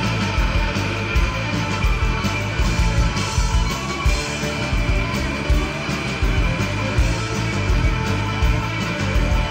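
Rock band playing live, an instrumental passage with electric guitar over a steady drum beat and no singing.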